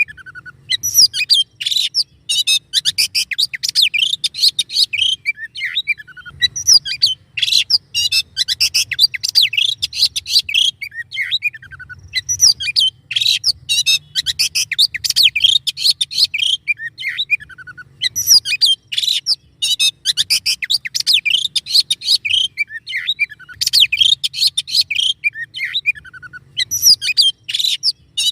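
Songbird singing a dense, rapid song of sharp chirps, trills and quick pitch glides, delivered in long phrases separated by short pauses: a masteran training recording full of harsh, rapid 'tembakan' phrases.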